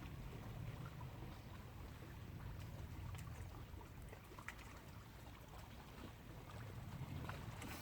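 Faint outdoor lakeside ambience: a steady low rumble of wind with soft water sounds and a few faint ticks.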